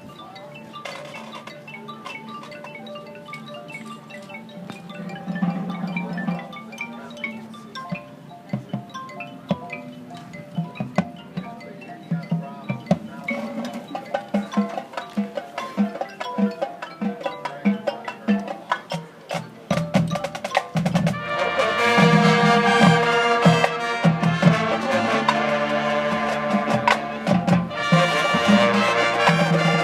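Marching band music: mallet percussion and drums play a rhythmic passage that grows louder, then the full band with brass comes in about two-thirds of the way through.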